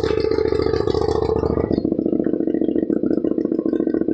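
Motorcycle engine running through a loud aftermarket exhaust silencer, a steady pulsing drone whose pitch drops about two seconds in as the revs settle back.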